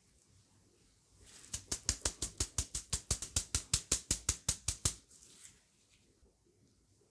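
A kitchen utensil striking in a quick, even rhythm: a run of about twenty sharp clicks, some six a second, lasting about three seconds.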